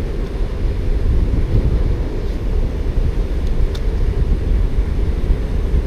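Strong wind buffeting the microphone: a loud, steady, low rumble with no pauses.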